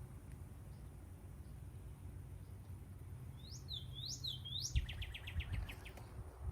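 A bird calling: three quick rising whistled notes about three and a half seconds in, followed at once by a fast trill of short notes.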